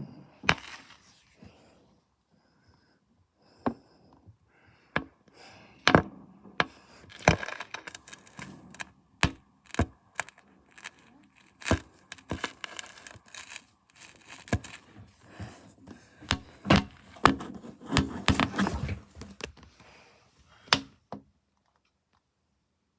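Fireworks going off: a string of sharp bangs and pops over a dense crackling that thickens in the middle, then everything stops suddenly near the end.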